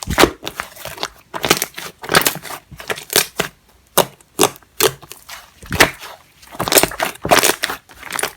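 Slime with clay mixed in being kneaded and squished by hand, making irregular short sticky squishing and clicking sounds, about one or two a second.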